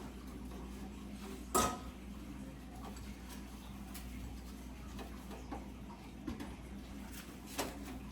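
Scattered clinks and knocks of kitchen pots and utensils being handled during stove clean-up, the loudest a sharp metallic clink with a brief ring about a second and a half in and another near the end, over a steady low hum.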